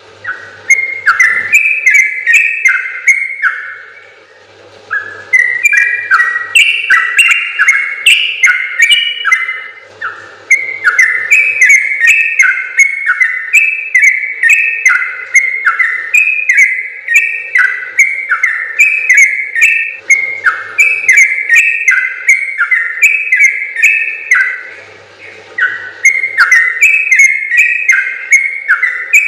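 Yellow-vented bulbul (trucukan) singing long, fast chains of bubbling whistled notes, the long 'ropel' song, broken by a few short pauses.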